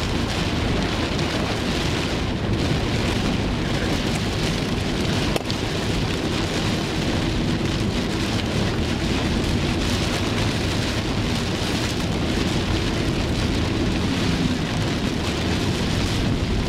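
Heavy rain falling on a moving car's roof and windscreen, heard from inside the cabin over the car's road noise; a steady, unbroken wash of noise.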